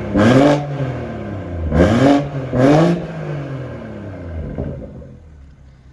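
BMW M140i's turbocharged 3.0-litre straight-six in Sport Plus mode, breathing through a CST turbo sports cat and M Performance exhaust, blipped three times in quick succession, each rev rising sharply and dropping straight back, then settling to a quieter idle over the last couple of seconds.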